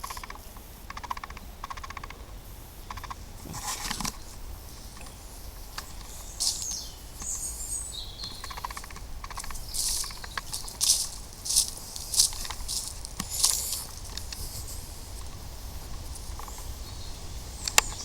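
Footsteps through undergrowth on a woodland path: irregular rustling and crunching, loudest in the middle stretch. A bird chirps briefly about seven seconds in.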